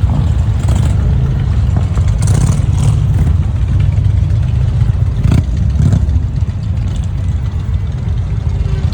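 Motorcycle engines running with a steady deep rumble, with a few short sharper sounds over it, the clearest about five and a half seconds in.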